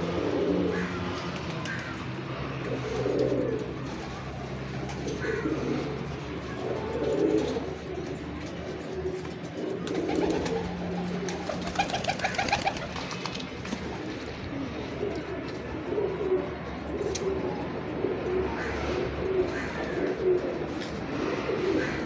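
Pigeons cooing, soft low coos repeating every couple of seconds and coming more often in the second half, over a steady low hum; a brief rattling sound about halfway through.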